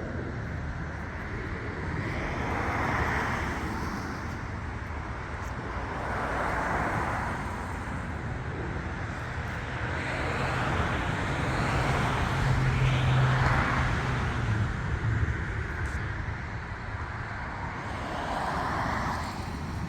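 Road traffic: a steady low rumble with vehicles swishing past every few seconds, and an engine hum about halfway through.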